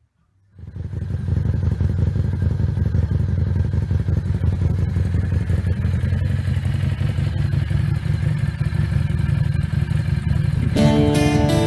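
Harley-Davidson XG 750 Street's V-twin engine running steadily through its open exhaust with the baffles removed. It cuts in suddenly about half a second in. Acoustic guitar music comes in near the end.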